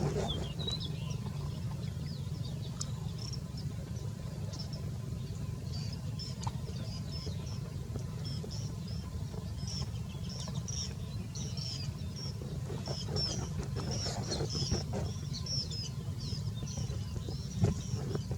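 Small birds chirping: many short, high, quick calls that grow busier about halfway through, over a steady low rumble.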